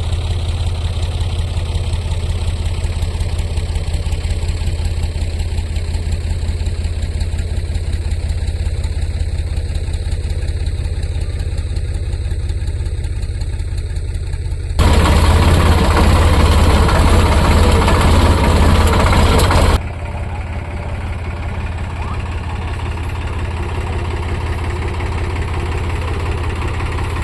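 Sonalika DI 42 RX tractor's diesel engine running steadily while pulling a loaded trolley. About halfway through, a louder, rougher stretch of about five seconds starts and stops abruptly.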